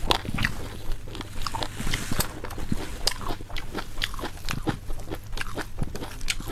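A person chewing and biting crunchy food close to the microphone, most likely crisp roasted pork: a run of irregular crunching clicks, several a second.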